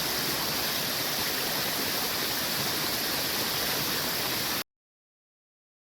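Rain-swollen stream rushing steadily. It cuts off abruptly about four and a half seconds in, leaving silence.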